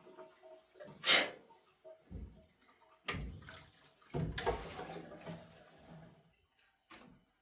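Water splashing or being poured in four short bursts, the loudest about a second in.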